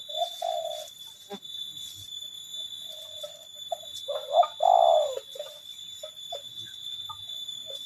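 Spotted doves cooing in short repeated notes, the loudest and longest coo about four and a half seconds in, with a few sharp clicks between the notes. A steady high-pitched tone runs underneath.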